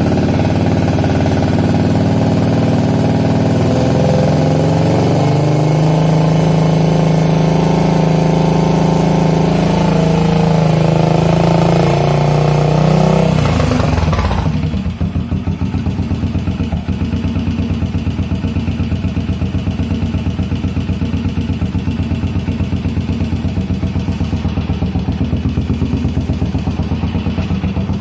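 Yamaha SR500's single-cylinder four-stroke engine held at raised revs, its pitch stepping up about five seconds in, then dropping back about halfway through to a rough idle with separate, uneven firing beats.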